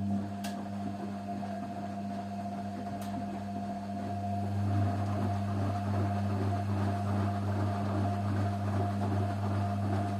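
Washing machine running with a steady motor hum, building over the first few seconds and then holding level.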